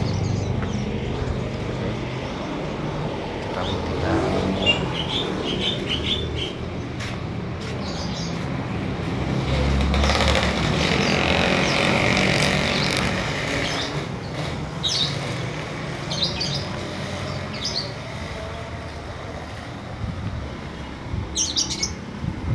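Birds chirping in short bursts over steady road-traffic noise, with a vehicle passing loudest about ten seconds in.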